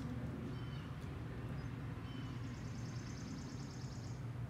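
Quiet outdoor ambience: a steady low hum with a few faint bird chirps, and a rapid high-pitched bird trill starting about two seconds in and lasting nearly two seconds.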